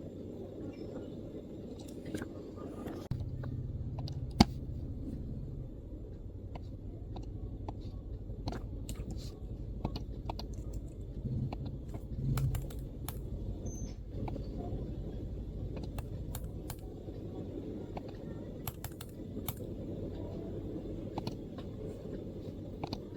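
MacBook keyboard typing: irregular, scattered keystrokes over a steady low background rumble, with one sharper, louder click about four seconds in.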